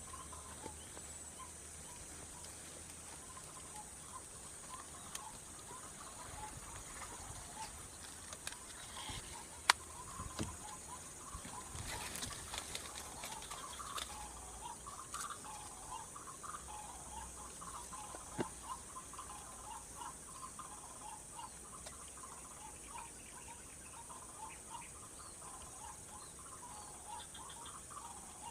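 White-breasted waterhen calls: many short notes repeated over and over, over a steady high insect drone. A single sharp click about ten seconds in is the loudest sound.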